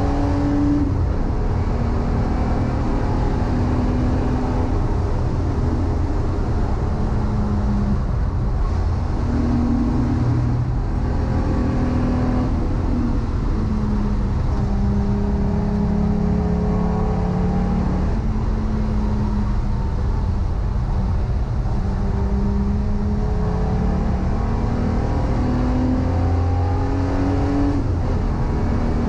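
Corrado race car's VR6 engine pulling hard through the gears. Its pitch climbs and then drops at each gear change, several times, over a constant low rumble of road and wind noise.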